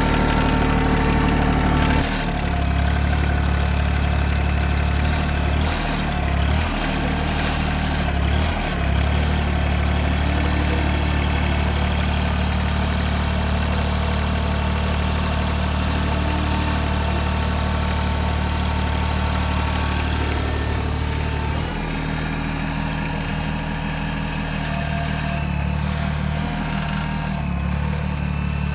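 RK compact tractor's diesel engine running steadily as it works to free itself from soggy, stuck ground. Its note dips briefly about two, six and eight seconds in, and drops lower a little past twenty seconds.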